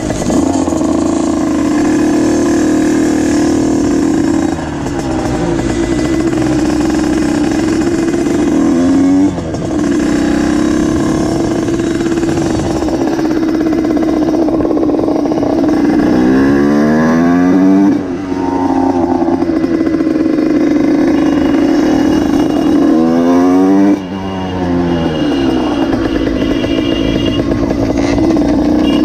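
Motorcycle engine running steadily, its revs rising and falling sharply about three times, around 9 seconds in, midway and near the end.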